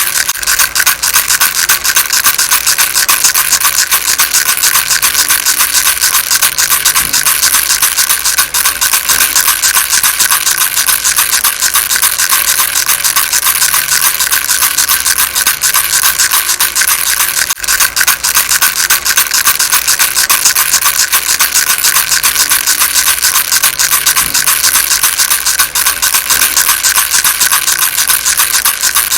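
Baby rattle shaken rapidly and continuously, its beads making a dense, steady rattle. There is a momentary break a little over halfway through.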